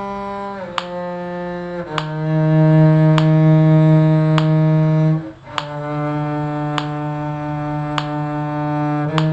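Slow melody of long, held low notes on a bowed string instrument, moving to a new note every one to four seconds, with a short break between notes about five seconds in. A metronome clicks steadily underneath, a little less than once a second.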